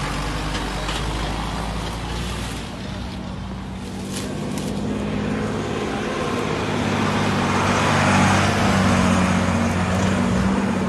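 Large vehicle engine running close by, a steady low drone over broad noise that grows somewhat louder partway through.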